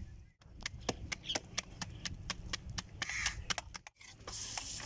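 Rapid sharp clicks, several a second, over a low rumble. Near the end a steady hiss sets in: a paratha sizzling on a hot iron tawa.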